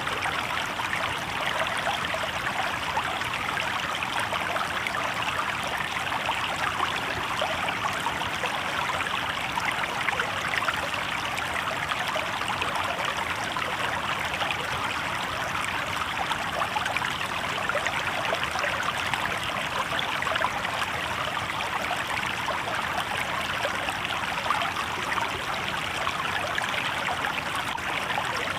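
Shallow river water babbling steadily over rocks, an even, unbroken rush.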